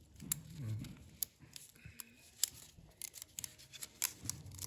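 Light metallic clicks and scrapes, irregular and short, as a new piston ring is worked by hand onto a Hercules IXA engine piston.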